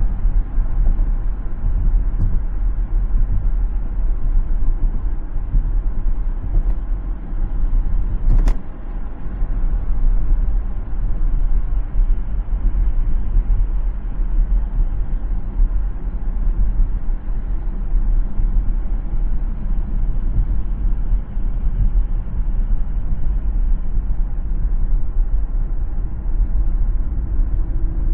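Car driving on a city road: a steady low rumble of road and engine noise, with a single sharp click about eight and a half seconds in.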